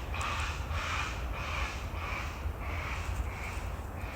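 A bird calling in a rapid series of short calls, about three a second, over a steady low rumble.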